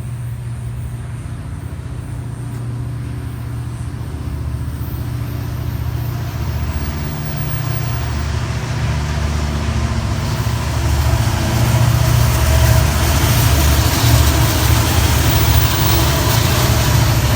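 A train arriving: a low diesel engine rumble that grows steadily louder for about twelve seconds, joined by rising wheel and rail noise, then holding loud.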